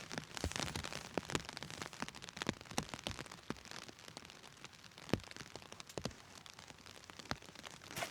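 Heavy rain falling on a tent: a steady patter with scattered sharp taps of heavier drops, one louder hit about five seconds in.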